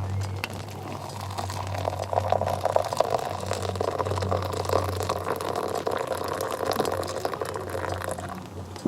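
Water pouring steadily into a pot or kettle for several seconds, tailing off near the end.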